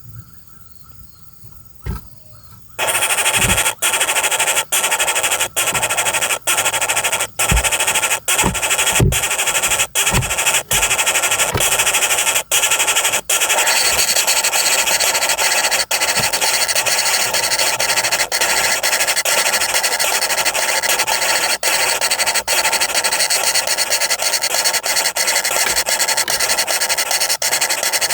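Woodpecker nestlings begging in the nest hole, a loud harsh rasping chorus that starts abruptly about three seconds in and keeps going with brief breaks about once a second, as the parent brings food. Before it, faint forest insects and two soft knocks.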